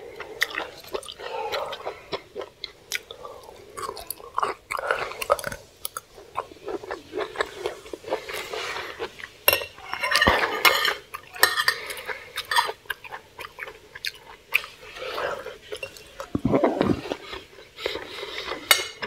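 Close chewing of soft boiled vegetables, with a metal fork and spoon clinking and scraping on a plate. The clinks are thickest about halfway through.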